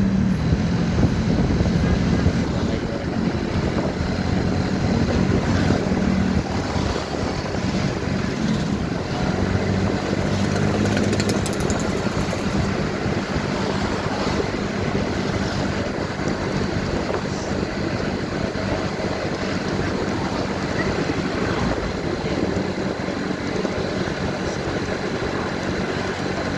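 Motorcycle engine running under way, with wind and road noise rushing over the microphone. The low engine note is strongest for the first few seconds, fades, and comes back briefly before steady riding noise takes over.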